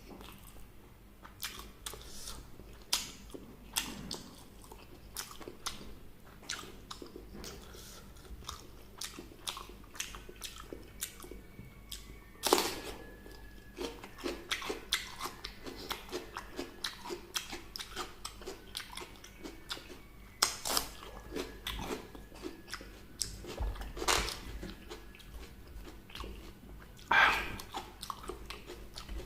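Close-miked eating of crispy fried chicken and vegetables: a steady run of wet chewing and small crunches, broken by a few louder crunching bites.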